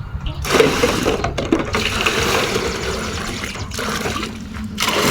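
Water pouring and splashing as dishes and utensils are washed and rinsed by hand, in several gushes with short breaks between them.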